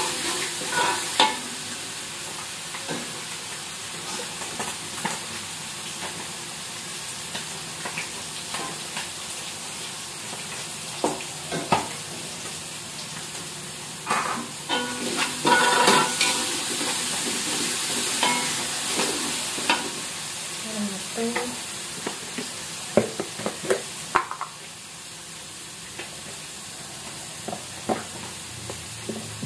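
Ground chili and garlic spice paste sizzling in oil in a metal wok over a gas flame, with a metal spatula scraping and knocking against the wok as it is stirred. The sizzle and stirring are loudest about halfway through and drop back near the end.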